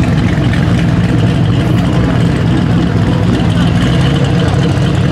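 Car engines running steadily, a loud even low rumble, with a crowd's chatter in the background.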